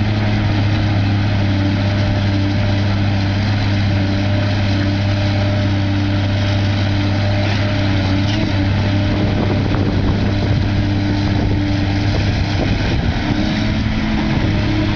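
Heavy-equipment diesel engine running steadily at constant speed, a loud, even low-pitched drone that holds the same pitch throughout.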